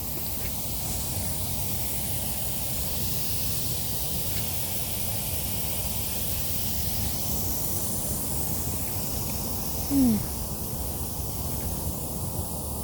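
Sprinklers spraying with a steady hiss. A short falling squeak sounds once, about ten seconds in.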